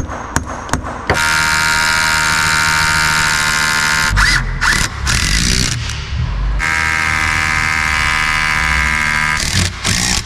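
Hammer blows, about three a second, for the first second. Then a power tool's motor runs in two steady bursts of about three seconds each, with a short, uneven break between them.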